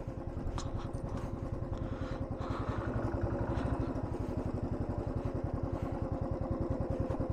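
Royal Enfield Thunderbird 350's single-cylinder engine running at a low, steady beat, its evenly spaced firing pulses unchanged throughout.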